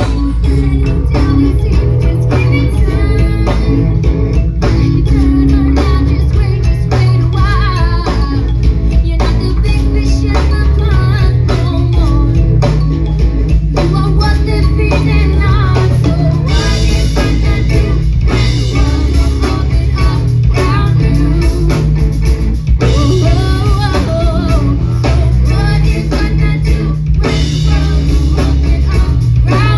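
Rock band playing live: drum kit and electric guitar over a heavy low end, with a singing voice.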